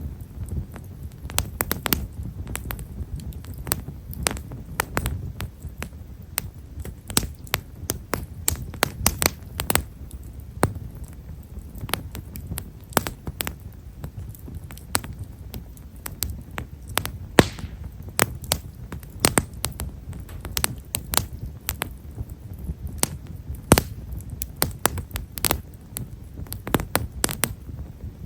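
Himeshara (Japanese stewartia) firewood burning in an open fire, with frequent small, fine crackles and pops at irregular intervals over the low, steady rumble of the flames.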